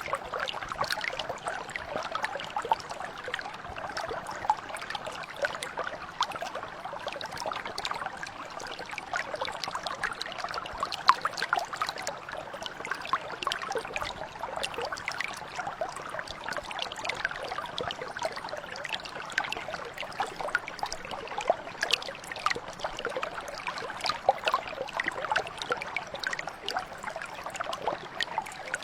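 A small stream or brook flowing over stones, babbling and trickling steadily with many small splashes.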